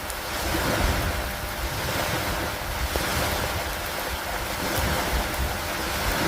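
Steady rain falling on a wooden dock and the water around it, mixed with wind and a low rumble that swells and eases every second or two.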